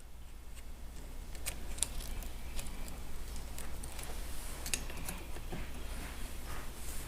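Scattered light clicks and scrapes from a golf-cart starter generator being worked on by hand, its brush windows being opened and the brushes lifted, over a faint steady low hum.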